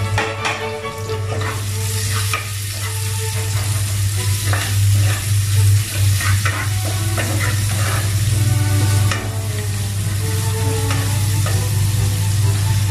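Chopped onion sizzling in hot oil in a metal pot, with a wooden spatula scraping and knocking against the pot as it is stirred. The sizzle grows louder about two seconds in, over a steady low hum.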